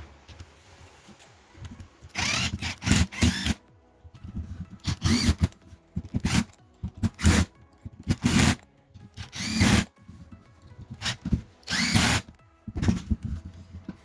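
Hilti TE 70 ATC rotary hammer run in short trigger pulls, about nine bursts under a second each. Each time the motor spins up and winds back down in pitch.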